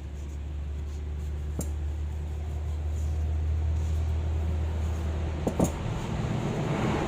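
Steady low mechanical hum, with a light knock about one and a half seconds in and two close knocks near the end.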